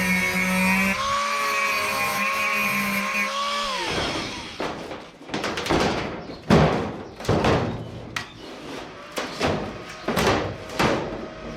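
Power tools working on sheet steel: a steady, slightly wavering whine for about the first four seconds, then a run of short, irregular bursts of tool noise and knocks.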